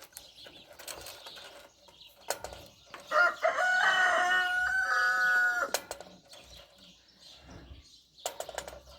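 A rooster crowing once: one long call of about two and a half seconds, starting about three seconds in. Light knocks and rattles come before and after it.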